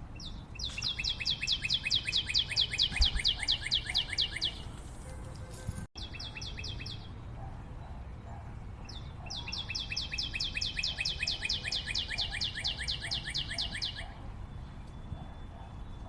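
A forest bird singing long, fast runs of sharp, evenly spaced high notes, about eight a second, each run lasting a few seconds and sagging slightly in pitch. There are two long runs and a short one in between.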